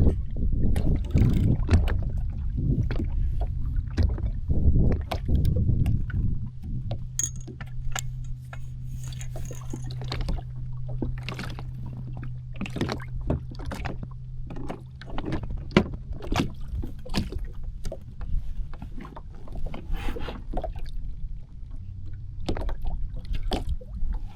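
Sounds of a jet ski sitting on the water: water sloshing and splashing, with repeated sharp knocks and clatters from handling on the craft. A steady low hum comes in about seven seconds in and fades near the end.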